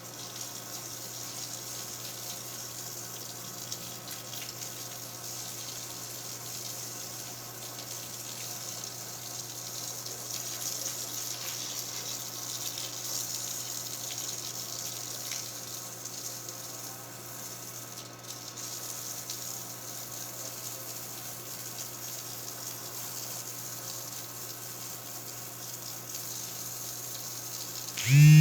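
Water running steadily from a tap as a constant rushing hiss. A brief, loud pitched sound cuts in at the very end.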